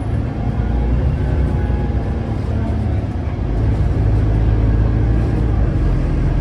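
Cummins ISLe straight-six diesel of an Alexander Dennis Enviro500 double-decker bus running under way, heard from on board as a steady low drone that swells slightly a little past halfway.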